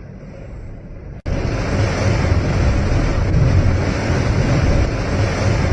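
Storm wind gusting against the microphone, a heavy low rumble. It is quieter at first, then about a second in cuts sharply to much louder buffeting.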